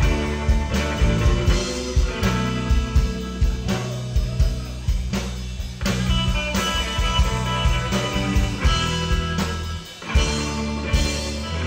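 Rock music with electric guitar, bass and drum kit, with a dip near the end.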